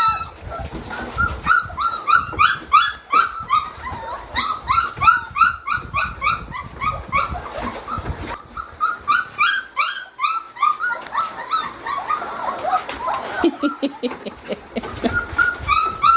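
Brittany spaniels whining and yipping excitedly: many short, high-pitched calls in quick succession, with a brief lull partway through.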